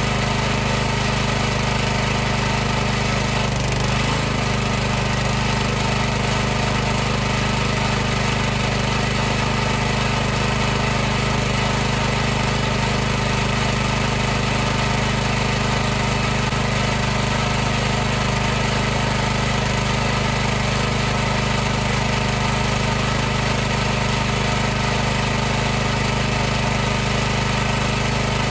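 A high-pressure washer runs steadily, its motor and pump giving a constant hum under an even hiss. The hum dips briefly about four seconds in.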